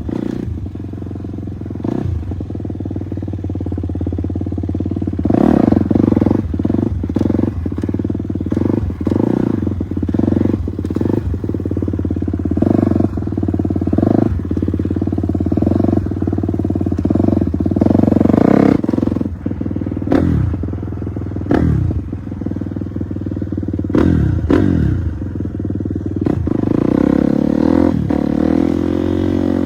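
Motorcycle engine running, revved again and again in short throttle blips that each fall back toward idle, then a longer rising rev near the end.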